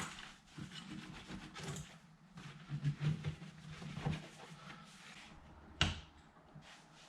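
Scattered light handling sounds from hands working on a car door: soft rubbing and small knocks, with one sharp click about six seconds in.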